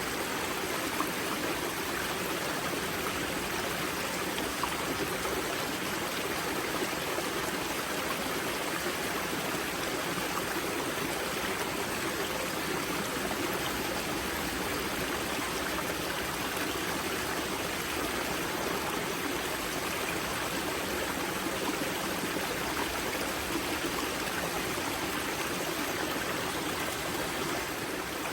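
Spring-fed mountain stream rushing and trickling steadily at its source, an even, unchanging water noise.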